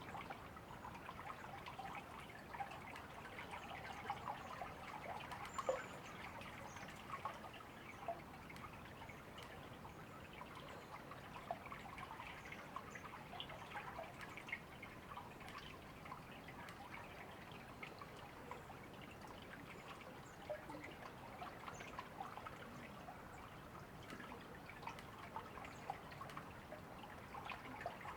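Small river or stream trickling and babbling over stones, a steady, faint run of water with many small splashes.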